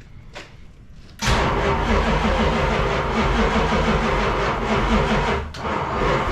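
A 1973 Dodge Road Runner's 440 big-block V8 being cranked over on the starter, starting suddenly about a second in, with a short break near the end. The engine has sat for years and is being cranked while its ignition timing is reset after the distributor cap was refitted.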